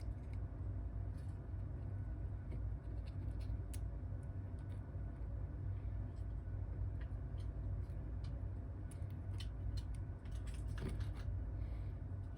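Scattered faint clicks and taps of small tools handling a smartphone's parts during repair, over a steady low hum.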